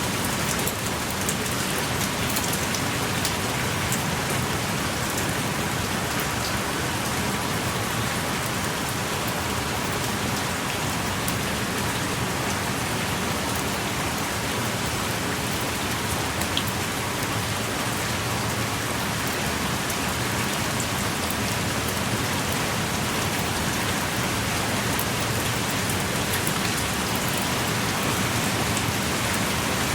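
Heavy rain pouring steadily in a forest, an even hiss with scattered close drop clicks.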